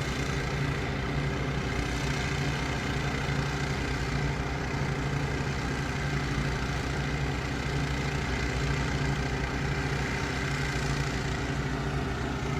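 Several fuel-driven engine pumps running together in a steady, constant drone, pumping storm water out of a pond.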